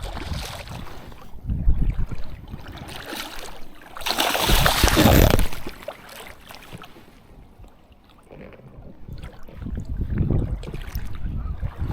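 Wind buffeting the microphone in uneven gusts outdoors by the water, with a louder rush of noise about four seconds in.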